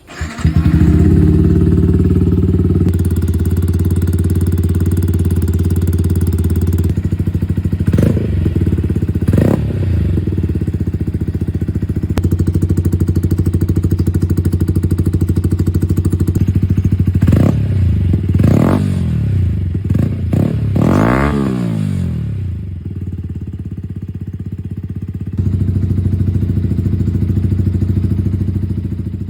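Yamaha R125's single-cylinder four-stroke engine starting from cold and settling into a steady fast idle. There are two brief throttle blips about a third of the way in and three more just past the middle. The idle drops lower for a few seconds near the end, then picks back up.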